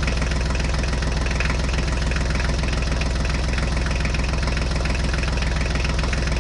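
Tractor engine idling steadily, an even low knocking beat.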